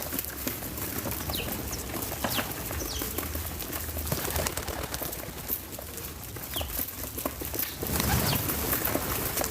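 Short, high bird chirps a few times over a steady outdoor rumble, with scattered clicks and taps.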